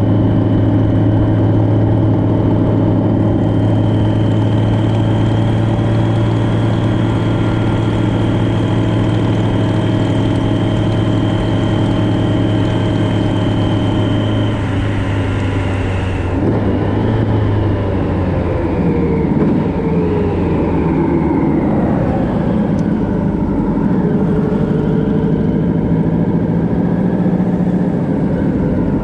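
Motorcycle engine running at a steady cruise. About halfway through, its pitch falls and then wavers up and down.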